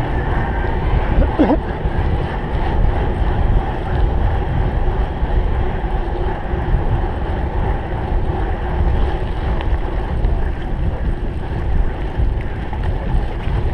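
Wind buffeting the microphone of a cyclocross bike being raced, over a steady low rumble of the bike rolling across rough ground. A brief high squeak comes about a second and a half in.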